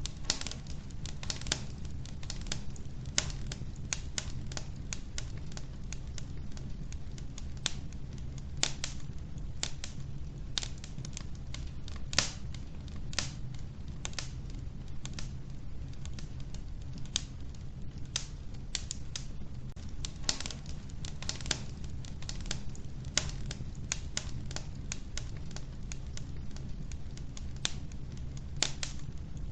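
Wood fire crackling in an old wood-burning stove: irregular sharp pops and snaps from the burning logs over a steady low rumble.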